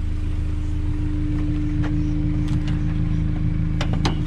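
Honda S2000's four-cylinder VTEC engine, fitted with an AEM V2 cold air intake, idling steadily. Two sharp clicks near the end.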